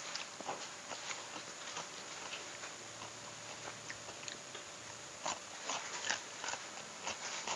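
A man biting and chewing raw cucumber slices during a meal of fried catfish, heard as irregular wet crunches and mouth clicks, close to a clip-on microphone.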